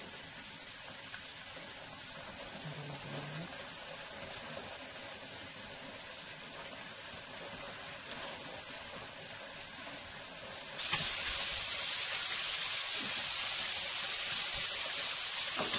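Green beans frying in oil in a pan, a steady sizzle that turns suddenly louder about eleven seconds in, as the pan is uncovered.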